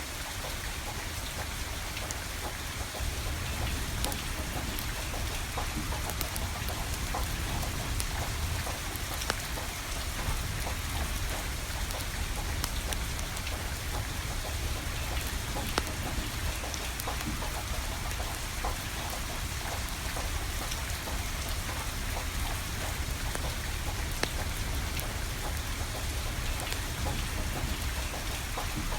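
Steady rain falling, with scattered sharp crackles and pops from burning firewood and a low rumble underneath.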